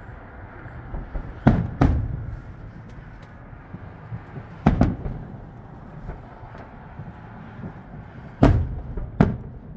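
Aerial fireworks bursting: six sharp bangs in three pairs, about three seconds apart, each trailing off in a low echo.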